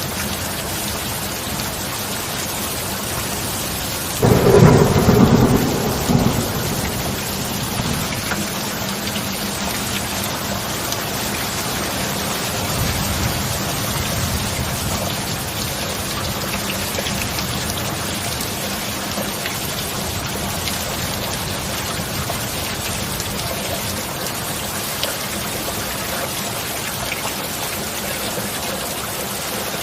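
Steady heavy rainfall, with a sudden loud thunderclap about four seconds in that rumbles and fades over the next two seconds, and a fainter roll of thunder some ten seconds later.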